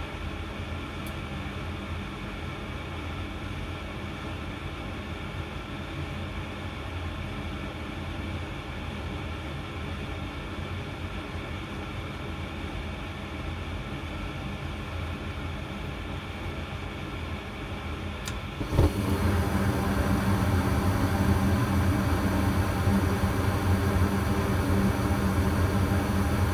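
Goodman gas furnace running steadily with its burners lit, a low hum under a fan-like rush. About three-quarters of the way through, a click comes and the sound steps up to a louder, steady rush with a stronger hum, as the circulating blower starts after the burners have stayed lit.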